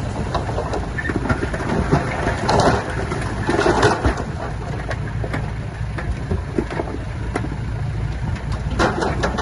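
Heavy earth-moving machine's diesel engine running steadily, with rattling, crunching clatter over it and louder bursts about two and a half to four seconds in and again near the end.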